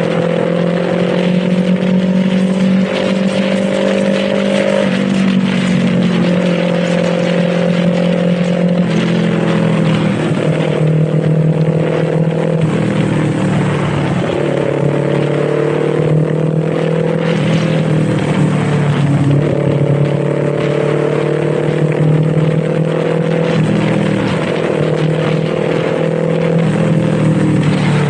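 Kawasaki Z400's parallel-twin engine running under way, its pitch climbing slowly and then dropping in a step several times, over a steady rush of wind.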